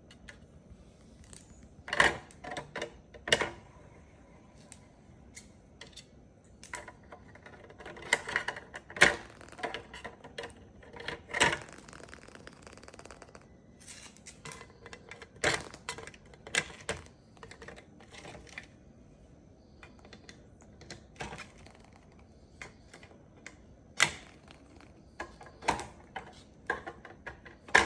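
Moluccan cockatoo's beak clicking and knocking at a hard toy, giving irregular sharp taps with pauses between them and the loudest strikes scattered through.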